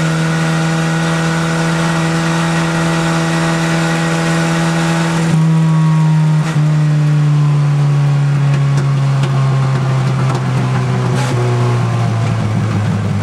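Crosley wagon's engine running under way, heard from inside the cabin: a steady, even engine note that dips briefly about six and a half seconds in, then slides gradually lower in pitch over the last few seconds.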